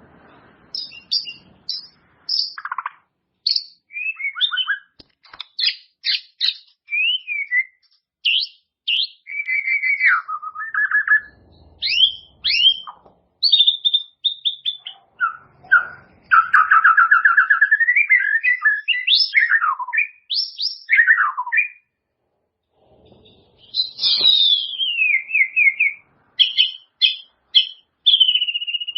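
White-rumped shama singing a long, varied song of clear whistles, sliding notes and fast repeated note series, pouring out its repertoire of learned phrases, with a short pause about two-thirds of the way through.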